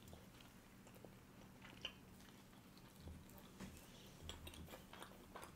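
Faint, close mouth sounds of two people chewing fried plantain, with scattered soft clicks.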